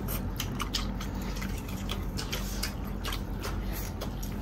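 Close-up biting and chewing of thick slices of grilled giant sausage: wet mouth smacks and many short clicks, over a steady low hum.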